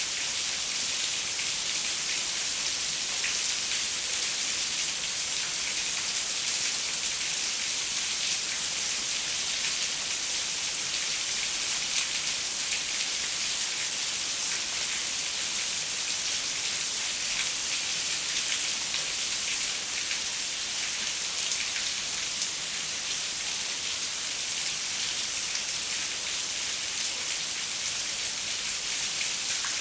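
Steady rain falling, a constant hiss with many small drop ticks, as of rain pattering on a window pane.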